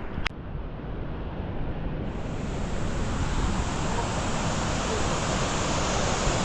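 Rushing water of waterfall rapids, a steady roar that grows fuller and brighter about two seconds in. A single sharp click comes just after the start.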